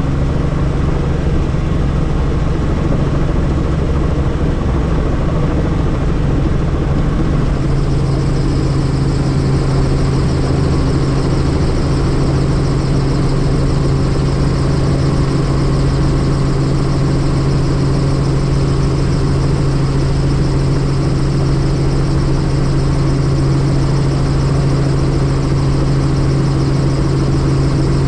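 Helicopter turbine and rotor running steadily, a loud continuous drone with a deep hum; a higher whine joins about a quarter of the way in.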